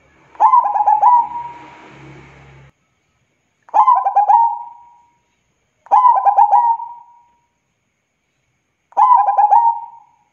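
Zebra dove (perkutut) cooing: four calls, each a quick run of short notes ending in a held note.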